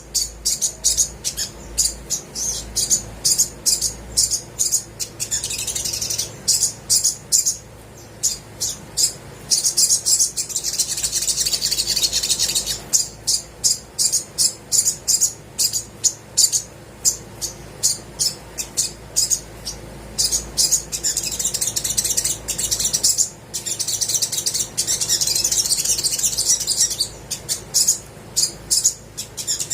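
Olive-backed sunbird singing: quick series of short, sharp, high chirps, breaking several times into longer stretches of fast, continuous high twittering.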